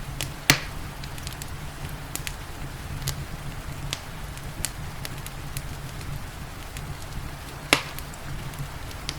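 Wood fire crackling in a fireplace, with scattered small snaps over a steady low rumble. Two loud pops stand out, one about half a second in and one near the end, over a soft hiss of rain.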